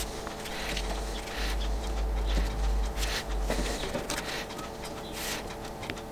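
Rustling and crackling of a decal's paper carrier sheet being handled and laid onto a wet fuel tank, with a low rumble underneath for a couple of seconds in the middle.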